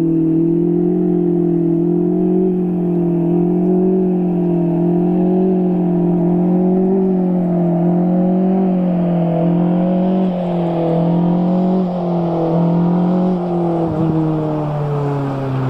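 Car engine running at steady revs, a loud, even drone that wavers a little and slowly drops in pitch near the end.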